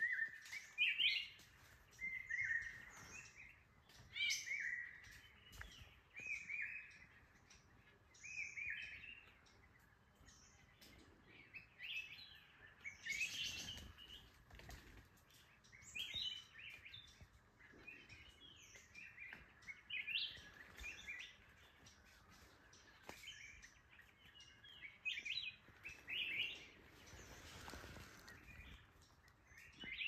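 Small birds calling, short high chirps repeating every second or two.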